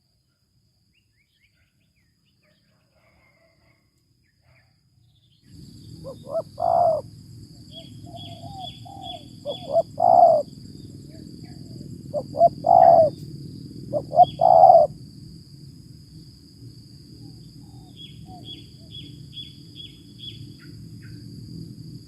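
Spotted dove (tekukur) cooing: about four phrases, each a few short notes ending in a longer coo, starting about five seconds in. Small high chirps from other birds and a steady high whine run underneath.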